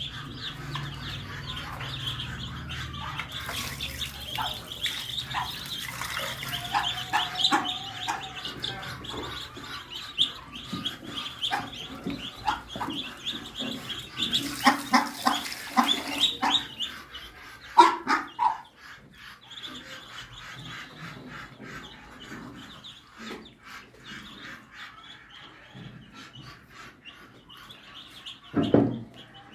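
Many small birds chirping and twittering together, the chatter dense for the first half and sparser later. A louder, lower animal call stands out about eighteen seconds in, and another comes near the end.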